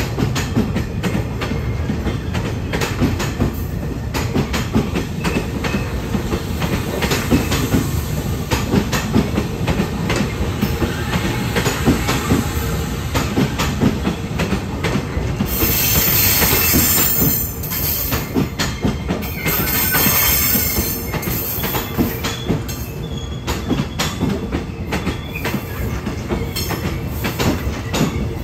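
Passenger train coaches rolling along a station platform, wheels clacking over rail joints under a steady rumble. Twice, about halfway through, there are bursts of high-pitched squeal and hiss from the wheels or brakes.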